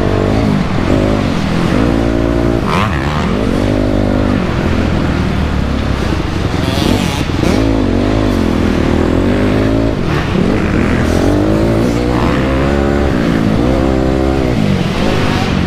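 2008 Honda CRF250R's single-cylinder four-stroke engine being ridden hard, its pitch rising and falling again and again as the throttle is opened and shut and the gears change.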